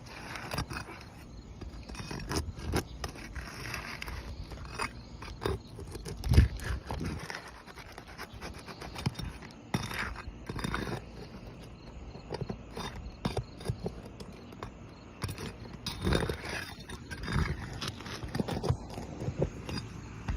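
Asphalt roof shingle being worked loose and pulled up: irregular scraping, crackling and knocks, with one louder knock about six seconds in.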